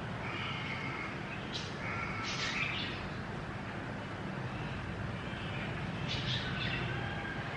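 Birds chirping a few times over a steady background hiss.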